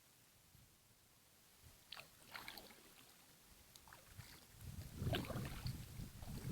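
Kayak paddle dipping and splashing in river water: a few short splashes starting about two seconds in. Near the end, wind rumbling on the microphone builds up.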